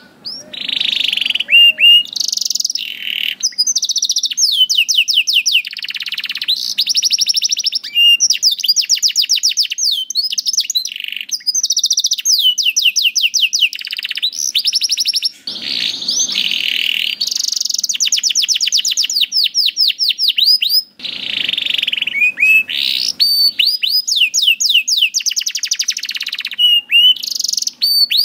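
Canary singing a long, almost unbroken song of fast rolling trills and rapid repeated chirps, with only a couple of brief pauses.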